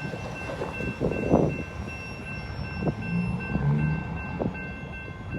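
CSX freight train rolling past: a low rumble with several clanks and knocks, and a thin steady high tone over it.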